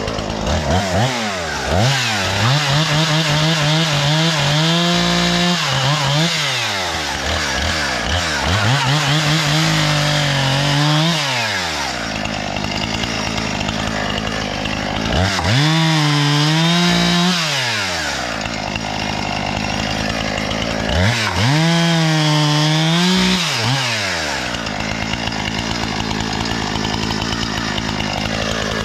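Husqvarna 460 Rancher two-stroke chainsaw cutting poplar rounds, its engine revving up to a high held pitch and dropping back about four times. It is running smoothly after its faulty magneto was fixed.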